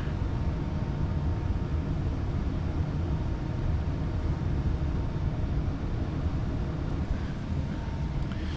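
Battery-powered wet/dry vacuum running steadily, drawing on an AC condensate drain line; its motor is running on a nearly dead battery.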